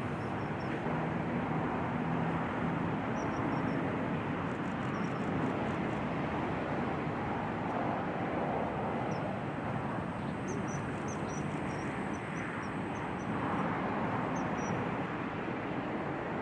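Steady rushing background noise, with short, faint, high-pitched bird calls scattered over it, coming thickest a little past the middle.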